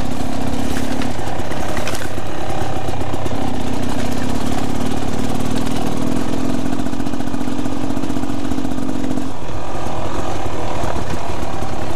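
Dirt bike engine running while riding a trail, a steady engine note with wind noise over the microphone. The note holds for several seconds at a time and falls back about nine seconds in.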